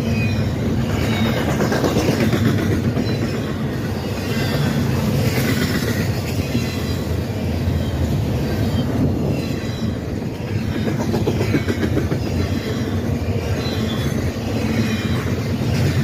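Train cars rolling past with a steady rumble. The wheels give short high squeals that come back every few seconds.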